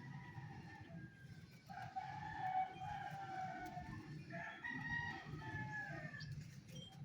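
A rooster crowing twice, each crow about two seconds long, over a steady low hum.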